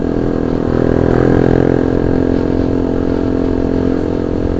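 Honda CB150R's single-cylinder engine running under way through an aftermarket titanium racing exhaust, its note rising slightly about a second in and then holding steady, with wind rumbling on the microphone.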